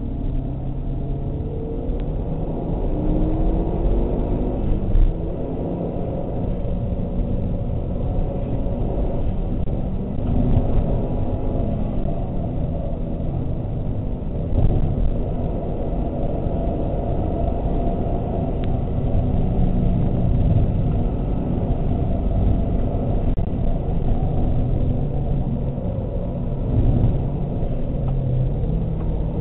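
Mazda 3 MPS's turbocharged 2.3-litre four-cylinder engine running hard at speed, heard from inside the cabin under a heavy rumble of road and wind noise. Its pitch rises as it accelerates, with small swells every few seconds.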